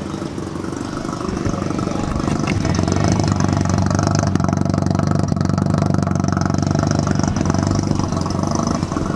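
Vehicle engine running close by, growing louder over the first three seconds and then holding steady.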